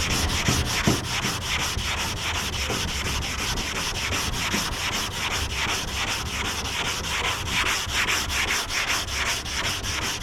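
180-grit sandpaper on a hand sanding block rubbing back and forth over primer on a car's lower door, in quick even strokes, several a second. It is block sanding off a guide coat to find and level low spots.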